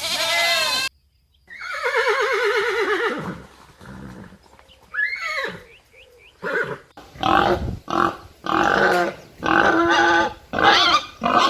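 Farm animal calls, led by a horse whinnying: one long wavering call that falls in pitch, then a string of shorter calls in quick succession. The tail of an earlier bleat ends just under a second in.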